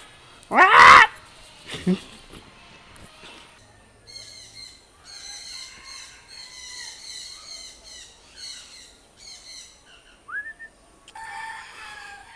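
Birds calling: one loud pitched call about a second in, then stretches of rapid chirping from several birds, a short rising note and another call near the end.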